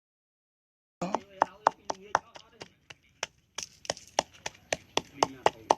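Rapid chopping with a knife on a wooden board, about four sharp strokes a second, starting about a second in with a brief pause midway.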